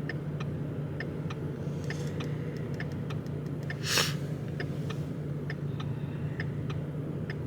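Hazard-light flasher clicking steadily, about two to three clicks a second, over the low hum of a Ford Mustang's 2.3 L EcoBoost four-cylinder idling. A short, loud burst of noise comes about four seconds in.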